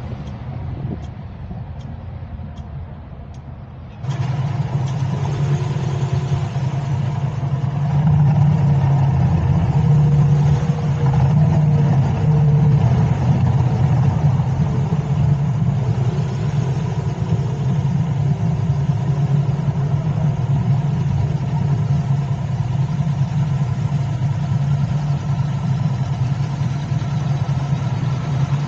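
A vehicle driving in city traffic. It is quieter for the first few seconds, with a few faint ticks about twice a second. About four seconds in, the sound jumps louder to a steady low engine hum with road and wind noise.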